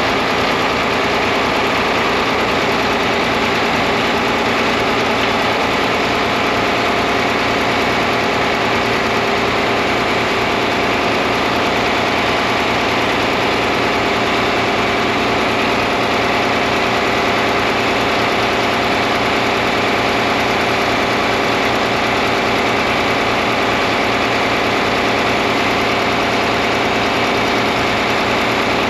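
John Deere 4010 tractor engine idling steadily, with an even low throb.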